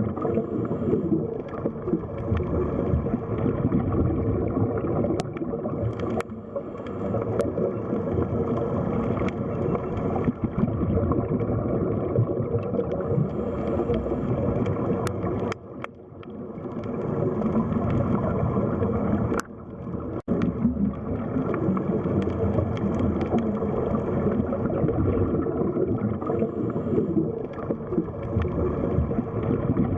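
Underwater sea ambience: a dense, steady, muffled wash of water sound, mostly low in pitch. It drops away briefly about halfway through and again a few seconds later.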